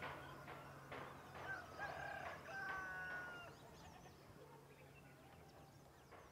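Faint rural ambience of birds calling, likely domestic fowl: several short sharp calls and a few brief whistled notes in the first three seconds or so. The calls then die away, leaving a low steady hum.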